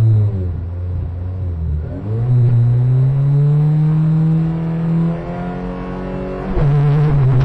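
Honda Civic Type R rally car's four-cylinder engine held at raised revs on the start line during the countdown. The pitch climbs about two seconds in and holds, dips briefly after five seconds, then steps up sharply near the end as the car launches off the line.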